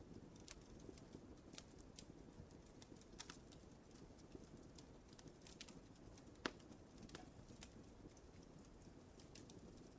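Wood fire crackling in a fireplace: scattered sharp snaps and pops over a faint, steady low rumble of the flames, with one louder pop about six and a half seconds in.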